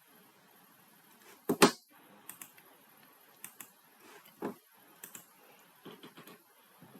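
Scattered clicks of a computer keyboard in use, a few separate keystrokes rather than steady typing, the loudest a quick pair about one and a half seconds in.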